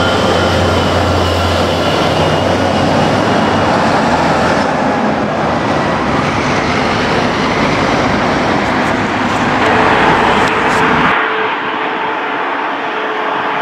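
Heavy trucks driving past, a steady engine and tyre noise with a low hum that swells about ten seconds in. Near the end the sound cuts abruptly to a thinner, quieter background.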